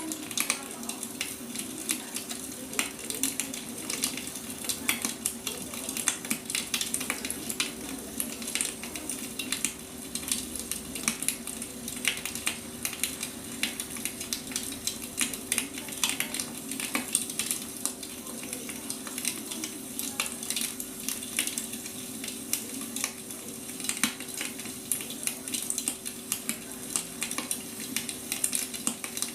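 Burning firewood crackling, with frequent sharp snaps and pops over a steady hiss. A faint steady hum runs underneath.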